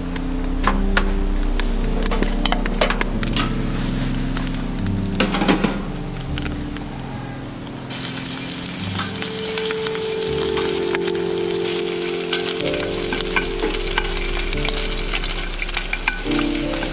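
Food frying in a pan over a fire: a sizzle with scattered crackles and pops. The sizzle grows louder and hissier about eight seconds in.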